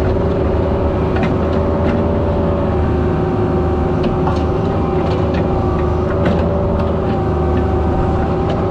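Mini excavator's diesel engine running steadily under load, with a wavering whine on top and scattered light knocks and clicks as it works.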